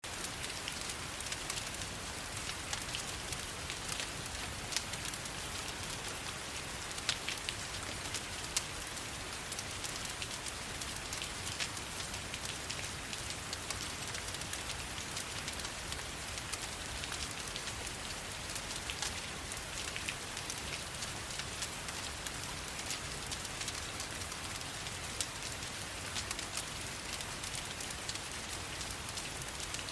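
Steady rain falling, layered with a crackling fireplace, with sharp little pops and ticks scattered throughout over an even hiss.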